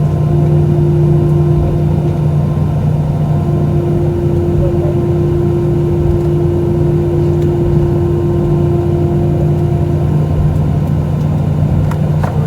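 Steady engine and airflow drone inside the cabin of an Airbus A320-212, with a low steady hum; a higher hum joins it just after the start and fades out near the end.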